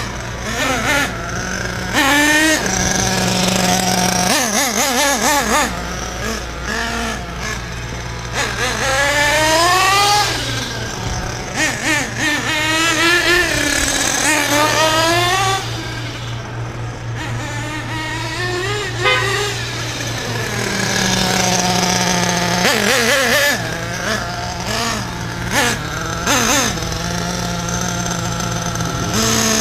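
The .28 nitro engine of a 1/8-scale RC car running at high pitch, its revs rising and falling again and again, dropping back now and then to a steady idle.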